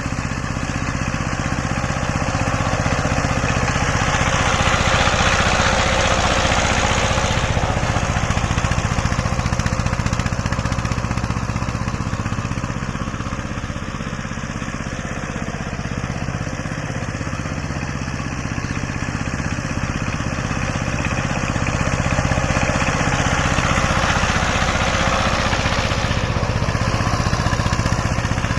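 Saiping 16 hp power tiller's single-cylinder diesel engine running steadily. It grows louder and harsher twice: about four seconds in and again about twenty-two seconds in, each time for several seconds.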